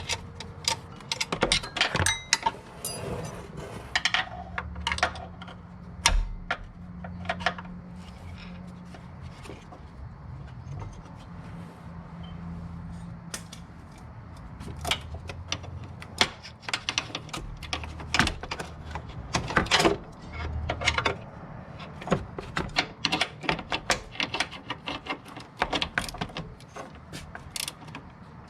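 Metal hand tools and parts clinking and clicking: a long run of sharp metallic taps and knocks, closer together near the end, over a steady low hum.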